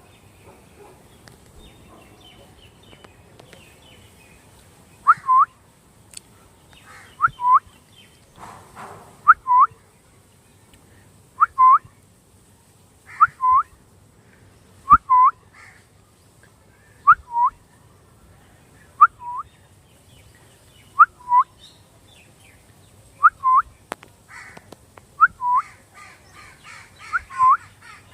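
A parrot calling over and over, each call a pair of short, sharp notes that drop in pitch, repeated about every two seconds, starting about five seconds in.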